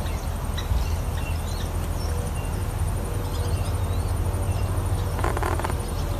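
Short bird chirps scattered over a steady low rumble, with a brief run of rapid taps or calls about five seconds in.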